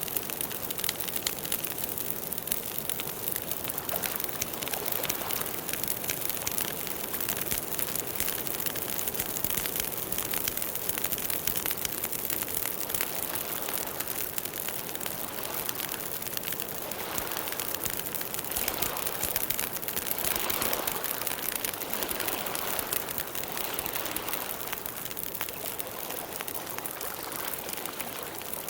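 Campfire burning: a dense, steady stream of small crackles and pops over a soft rush of flame, which swells a little now and then.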